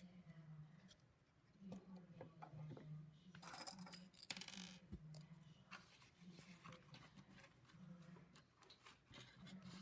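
Faint clicks and light tapping of LEGO plastic pieces being handled and pressed together, with a rustle lasting about a second near the middle, over a steady low hum.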